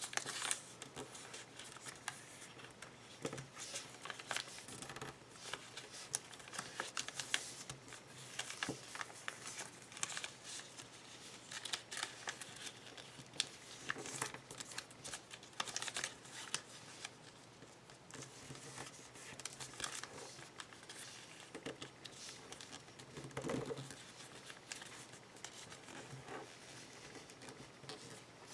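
Origami paper being folded and creased by hand: continual rustling and crinkling with frequent short, sharp crackles as the folds are pressed.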